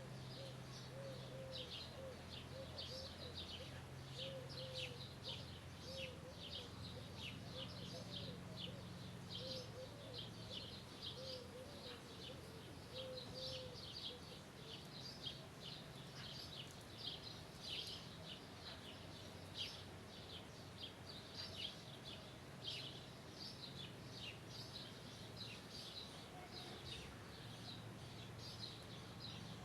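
Birds chirping continuously in many short, high notes, with a lower call repeated about once a second through the first half. A faint steady low hum sits underneath.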